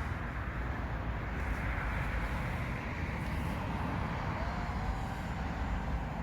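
Steady outdoor street noise with distant road traffic, a continuous rumble and hiss.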